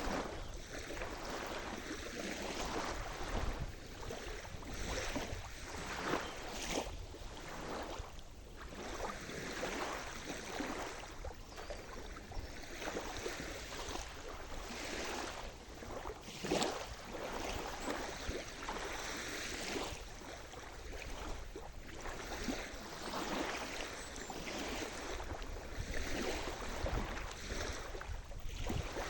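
Sea surf: waves washing in and splashing irregularly, one after another without a break.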